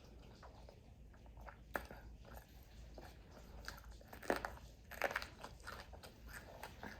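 A person chewing and biting crunchy food, with irregular sharp crunches: one about two seconds in and a louder cluster around four to five seconds in.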